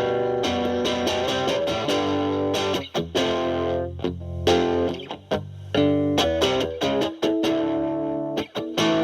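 Fender Stratocaster played through a Boss DS-2 Turbo Distortion pedal, turbo mode off with the distortion knob around 8 to 9, into a Marshall Valvestate amp's clean channel. It plays distorted chords, some held and ringing, others cut short between sharp strums.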